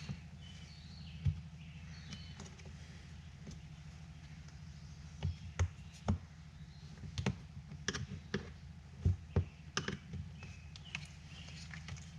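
Scattered clicks and taps of a screwdriver and bone stick working new rubber weather stripping into a metal vent window frame, the sharpest knocks about halfway through and again near 9 seconds, over a steady low hum.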